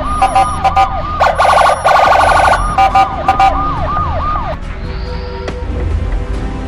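Police siren cycling through fast repeated pitch sweeps, with a quicker warbling stretch in the middle, cutting off about four and a half seconds in; a low rumble carries on after it.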